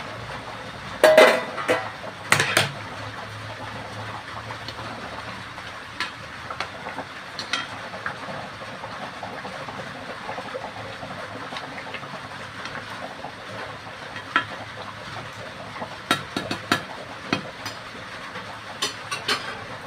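Pot of fish curry cooking with a steady hiss, while a spoon knocks and scrapes against the pot now and then. The loudest knocks come about a second in and again about two and a half seconds in, with lighter clinks later.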